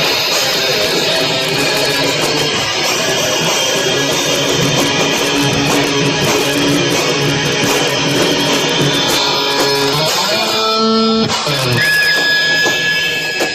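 Live punk band playing loud, strummed distorted electric guitar with bass and drums, captured as an overloaded, distorted recording. Near the end the full playing stops, leaving ringing held notes and a steady high whine.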